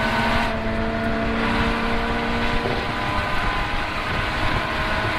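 Car engine running at speed on a race track, under heavy wind and road rumble. About half a second in the high hiss drops away. The engine note holds steady, then sags a little later on as it eases off.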